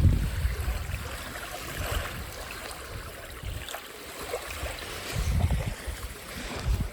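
Light splashing and lapping of water around a canoe, with gusts of wind buffeting the microphone at the start and again near the end.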